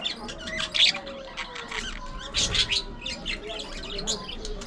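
A colony of budgerigars chattering, with many short chirps and squawks overlapping continuously; louder clusters come about a second in and about two and a half seconds in.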